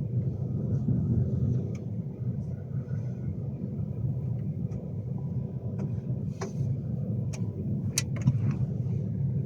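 Class 390 Pendolino running at speed, heard from inside the carriage: a steady low rumble, with a few short sharp clicks in the second half.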